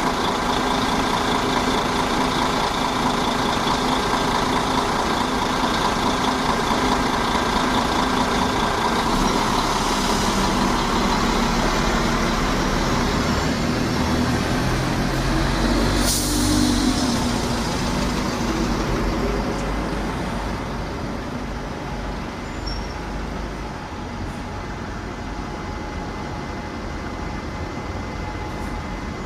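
Diesel bus engine running steadily, with a sharp hiss of the air brakes about halfway through; the engine sound then fades away.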